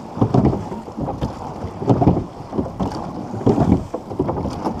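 Rowing shell underway under crew power, with wind buffeting the microphone in uneven surges over the water and stroke noise.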